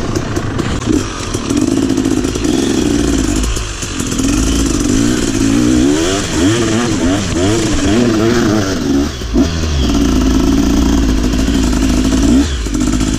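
Trail motorcycle engine running under load, its revs holding steady, then rising and falling over and over through the middle as the throttle is worked, then steady again, with short drops in engine note a few times.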